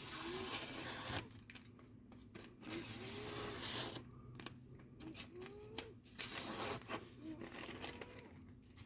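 Freshly sharpened knife edge slicing through paper in several long hissing strokes, a test of sharpness where any catching would show a leftover burr or rough spot.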